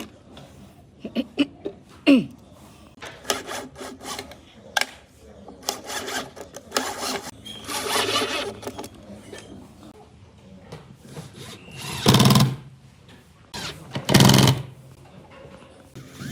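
Intermittent woodworking sounds: tools knocking and scraping on wood in short irregular strokes, then two louder bursts of about half a second each near the end.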